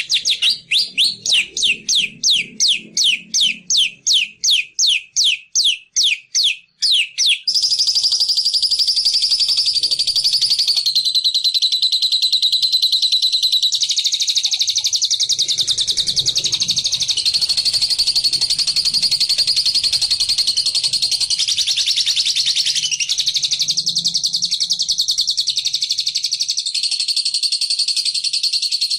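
Recorded bilabu (labet) song used as a trapping lure: first a run of short, sharp, high notes about three a second, then from about seven seconds in a long unbroken rapid high chattering trill, the 'ngekek' song, that shifts pitch in small steps.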